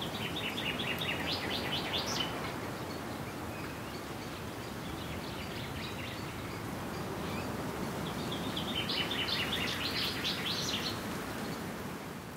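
A bird singing two quick runs of short, high chirping notes, the first at the start and the second about nine seconds in, over a steady outdoor hiss that fades out at the very end.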